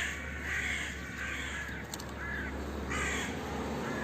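Crows cawing: a series of short, harsh caws about every half second to a second.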